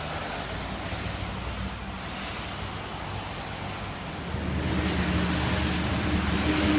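Steady noise like wind on the microphone, with a low motor hum underneath that gets louder and stronger about four seconds in.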